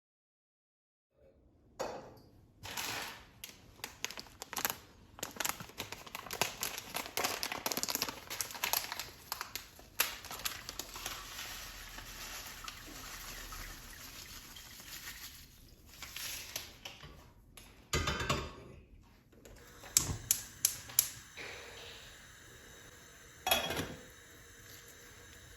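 Household handling sounds: a busy run of clicks, light knocks and rustling as objects are picked up and set down, then a few sharper separate knocks in the last third.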